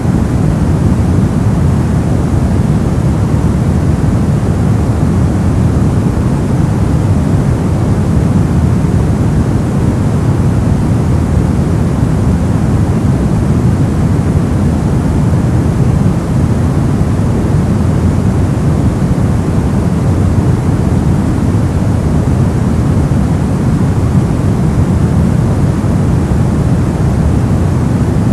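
Brown noise: a steady, deep rumbling hiss, heaviest in the bass and thinning toward the highs, unchanging throughout.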